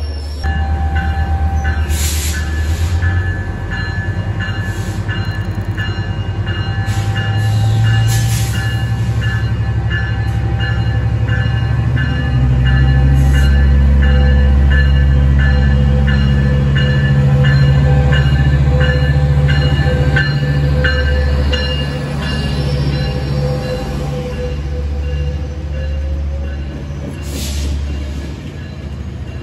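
A Metrolink commuter train and a double-stack freight train running through a station give a heavy, steady low rumble. Over it a bell rings in even strokes, about two a second, and stops about two-thirds of the way through. A few sharp bangs stand out.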